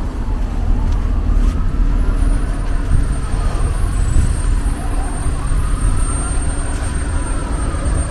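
City street traffic: a large vehicle's engine rumbling close by, with faint whines rising and falling in pitch.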